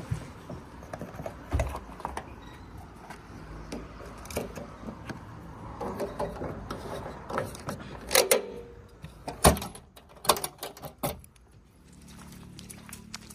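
Irregular sharp knocks and clicks, clustering loudest about eight to ten seconds in, then fading.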